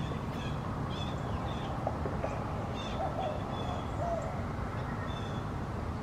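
Outdoor birds calling: short high chirps repeating every second or so, with a few low hooting notes around the middle, over a steady low rumble.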